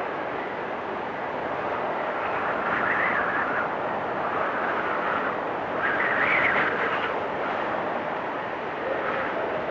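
Blizzard wind blowing in gusts: a steady rushing with a whistling howl that swells and fades, loudest about three and six seconds in.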